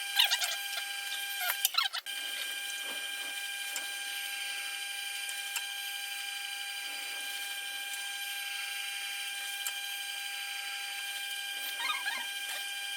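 Tormek T8 wet sharpener running with a steady, even hum. Irregular scraping sounds in the first two seconds are likely a blade worked on the stone at the final grit.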